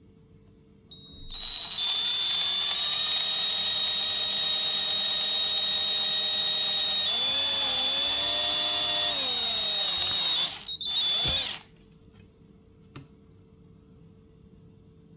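Electric power drill running at high speed with a steady high whine. Its pitch sags for about two seconds in the middle as it comes under load, then it runs briefly in short bursts and stops.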